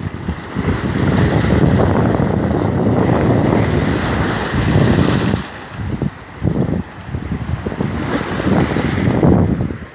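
Choppy lake waves breaking along the shoreline and against a break wall after a storm, under heavy gusty wind buffeting the microphone. The buffeting eases briefly a couple of times past the middle.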